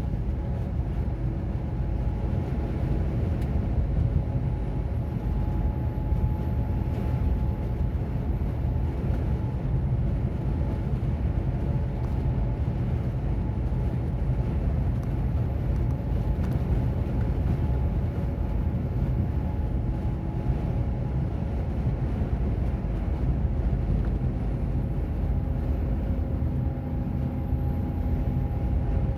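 Container lorry on the move: a steady low rumble of diesel engine and road noise, with faint engine tones that drift slightly in pitch.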